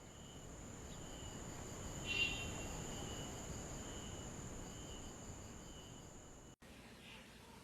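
Insects chirring in a steady, continuous high tone over low background rumble, with a brief louder swell about two seconds in. The chirring cuts off abruptly near the end, leaving a quieter background.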